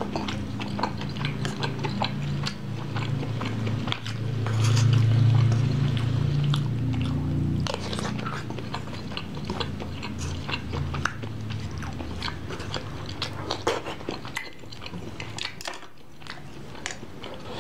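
Close-miked chewing and mouth sounds of a person eating a tuna and mushroom sauté, with sharp clicks of a metal spoon scraping and tapping a wooden plate.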